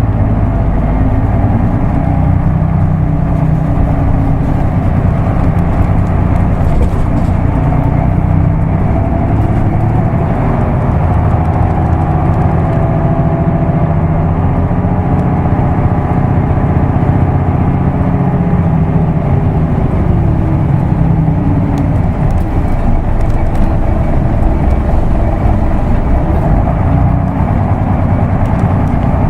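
Isuzu Erga Mio manual-transmission bus running on the road, its diesel engine and road noise heard inside the bus. The engine note rises and falls in pitch about midway as the bus speeds up and slows down.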